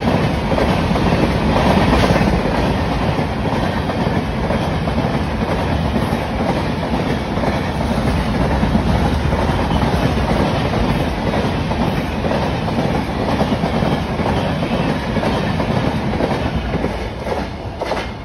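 Indian Railways passenger train running past at speed close by: a steady loud rumble of coaches with the clickety-clack of wheels over the rail joints, easing off slightly near the end as the last coach clears.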